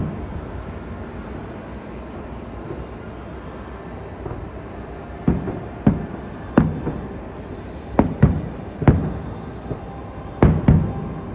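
Distant fireworks bursting: a run of about eight booms, some in quick pairs, each trailing off in a rumble, starting about five seconds in, over a steady chirr of crickets.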